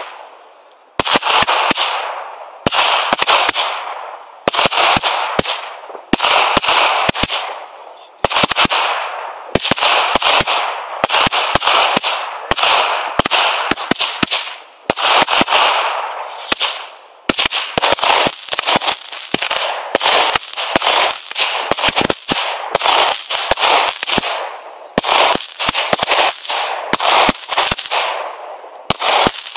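Fireworks going off: a dense run of sharp bangs about once a second or faster, each followed by a fading hiss, with clusters of quicker cracks in between.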